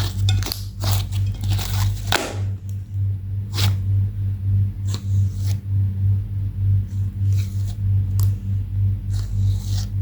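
Slime being worked by hand, with crackling clicks and short squishy scrapes, most of them in the first two seconds and a few later on. Under it runs a low, evenly pulsing bass.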